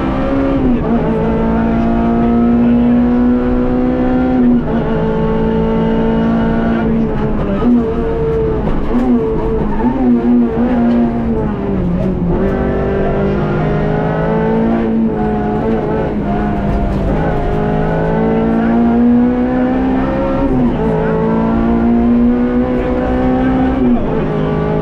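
Rally car engine heard from inside the cabin, running hard at high revs on a stage. Its pitch jumps at each gear change, dips about twelve seconds in as the car slows for a tight bend, then climbs again under acceleration.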